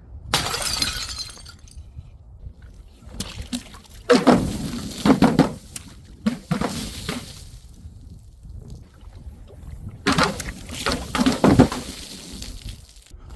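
Glass bottles smashing, several separate crashes one after another, each followed by tinkling shards, with some liquid splashing.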